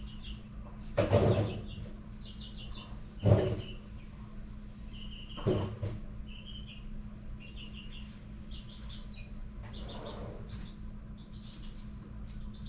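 Short, high chirps repeating in quick little groups, like a small bird calling, over a steady low hum, with four knocks or clunks about one, three, five and a half, and ten seconds in.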